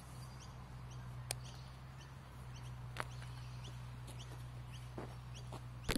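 Quiet outdoor background with faint, brief bird chirps and about three sharp clicks over a steady low hum.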